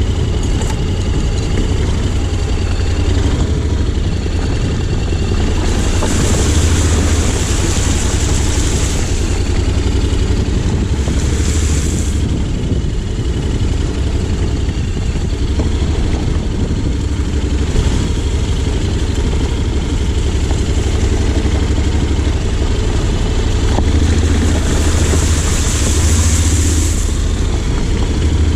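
Honda X-ADV 750's parallel-twin engine running steadily, with a high hiss that swells up three times.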